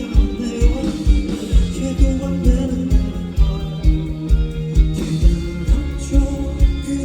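Live rock band playing: guitar and sustained chords over a steady kick drum beat, about two beats a second.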